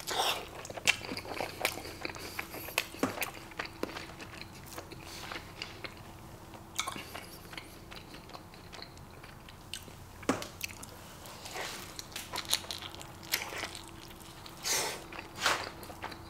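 Close-miked eating sounds: a person biting into and chewing a barbacoa burrito in a soft flour tortilla, with short, irregular mouth clicks throughout.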